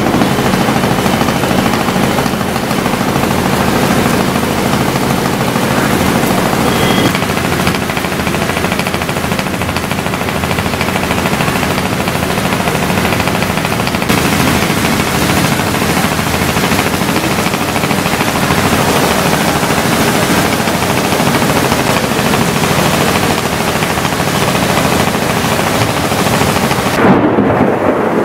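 Heavy rain pouring down, a dense, continuous rattle of drops striking car roofs and other hard surfaces close by. Near the end the hiss drops away and a low rumble comes in.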